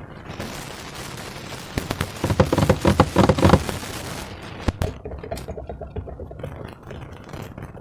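Slime being squished and worked by hand, with a dense run of wet crackling pops, loudest from about two to three and a half seconds in, and a single sharp snap near five seconds.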